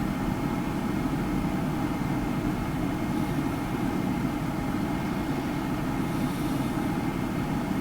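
Steady low rumbling hum with no distinct clicks or knocks, even in level throughout.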